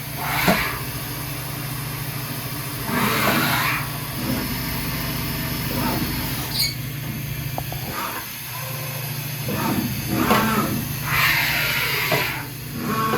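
Fadal 2216 CNC vertical machining center under power: a steady low hum with several whirring, rising and falling surges, once about half a second in, around three seconds in and in a longer run near the end.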